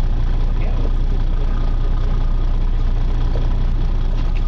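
Charter boat's engine running steadily, a low, even drone.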